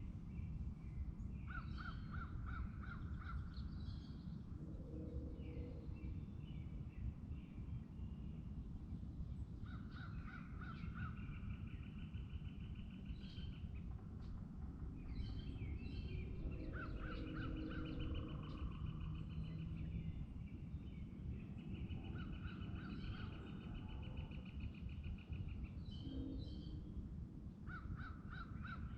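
A songbird singing the same song over and over, about every six seconds: a quick run of notes, then a long, even trill lasting two to three seconds. Fainter, lower bird calls come in between, over a steady low rumble of wind or lake ambience.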